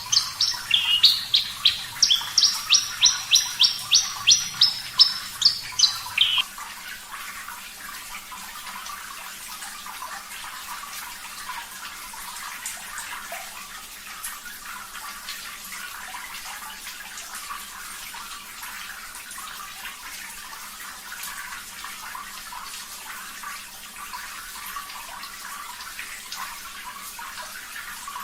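Javan bush lark (branjangan) singing a fast run of sharp, evenly repeated notes, about three a second, that stops suddenly about six seconds in. Steady running water continues under it and on its own afterwards.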